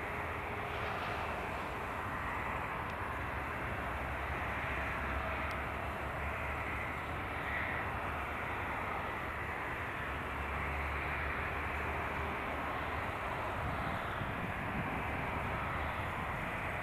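Steady jet airliner noise from a Boeing 777-300ER with its GE90-115B engines: an even rush of engine and airflow noise that holds level and pitch throughout, with no rise or fall.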